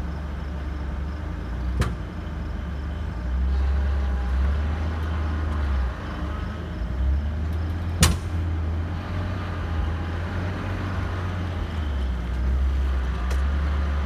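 Engines running under load during a tow pulling a stuck tractor out of mud, a low steady rumble that swells and eases. A sharp click comes about two seconds in and a louder bang about eight seconds in.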